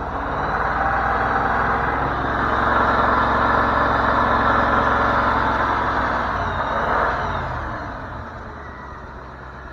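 Ford 302 V8 engine revved up and held at raised revs, then dropping back to idle near the end; the owner believes the engine is blown with a rod knock.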